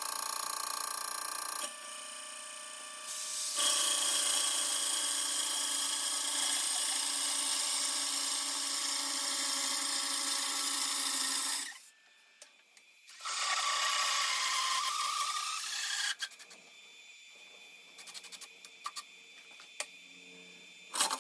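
Lathe turning a wooden snare drum shell: a steady motor whine with the hiss of the cutter shaving the wood, dropping away almost completely for about a second in the middle and easing off to a quieter run with light clicks near the end.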